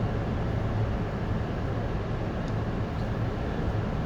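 City bus engine idling with a steady low hum while the bus stands at a stop.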